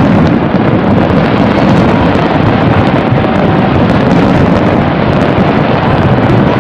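Dense fireworks barrage heard as one loud, steady roar, the explosions merging so that no single bang stands out.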